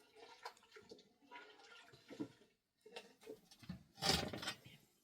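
Water splashing in irregular bursts, the loudest about four seconds in.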